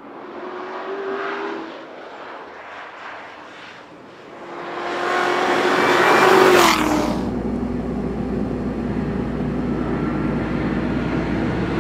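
2015 Corvette Z06's supercharged 6.2-litre V8 at speed: faint and distant at first, then growing louder as the car approaches and passing by about six and a half seconds in with a drop in pitch, after which a steadier engine note carries on.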